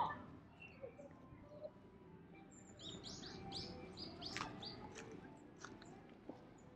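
A small songbird calling: a quick run of about half a dozen high, falling notes starting about three seconds in, over a low, even background hum.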